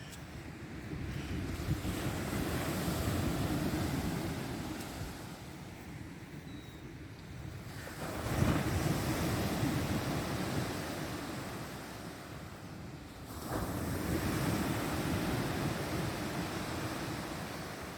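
Black Sea waves breaking on the shore: three surges of surf about five to six seconds apart, each rising quickly and washing out slowly.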